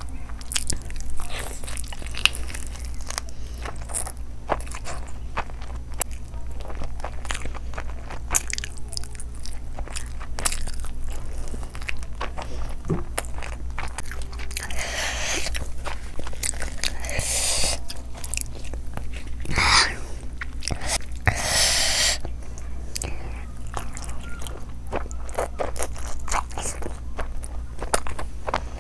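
Close-miked eating sounds of a person biting and chewing a spicy fried chicken leg in curry with egg biryani: many short wet clicks and crunches. A few longer, louder noisy stretches come between about 15 and 22 seconds in.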